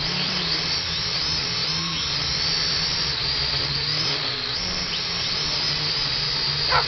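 Small drone's propellers whining steadily over a low motor hum, the pitch wavering slightly, then cutting off just before the end.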